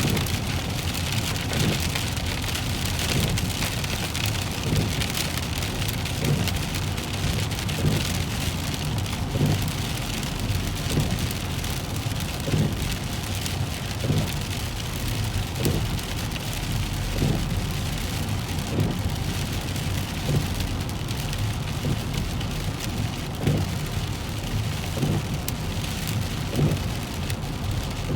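Heavy rain drumming on a car's windshield and roof, heard from inside the moving car over a low road rumble. Windshield wipers sweep back and forth in a steady rhythm, one stroke about every second and a half.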